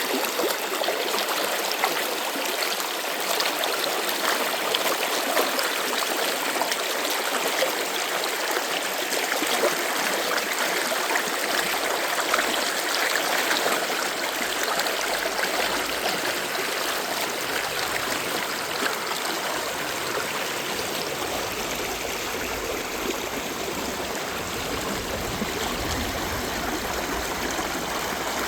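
Stream water flowing steadily, an even rushing with no breaks, and a faint low rumble joining in during the second half.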